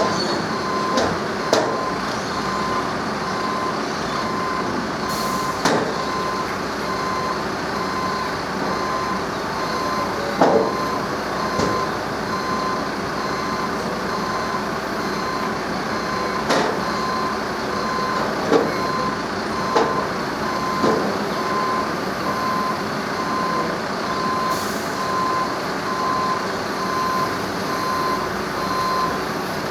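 A vehicle's reversing alarm beeping steadily over a running engine, with occasional sharp knocks and clanks.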